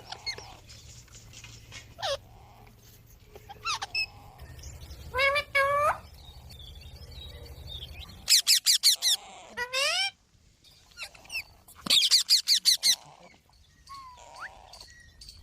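Green parrot calling: scattered single squawks and rising, gliding calls, then two quick runs of harsh repeated screeches, about eight a second, a little past halfway and again later. A low hum runs under the first half.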